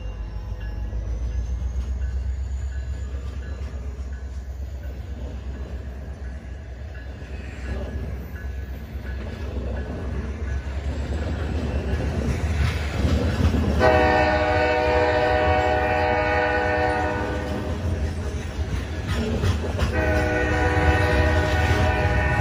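Alaska Railroad coal train rolling through a grade crossing: a steady low rumble of the hopper cars on the rails. The locomotive horn sounds a long blast a little past halfway and again near the end.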